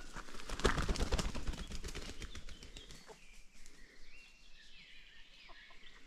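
A short burst of rustling about a second in, then a wild bird's wavering whistled call in the second half.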